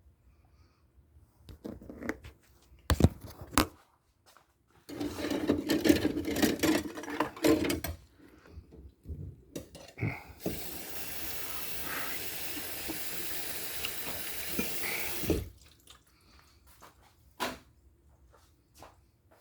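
Kitchen tap running steadily for about five seconds and then shut off, after dishes clattering. There are scattered knocks and clicks before and after.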